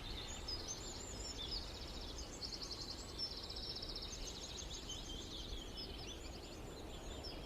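Small songbirds chirping and singing high-pitched rapid trills, phrase after phrase, over a faint steady background hiss.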